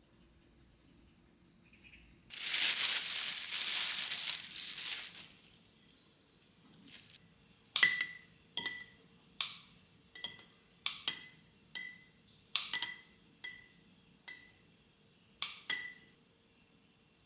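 A few seconds of rustling or crinkling, then about a dozen sharp clinks at an uneven pace of roughly one a second, each with the same short ringing tone, as of a hard object tapped against glass or ceramic.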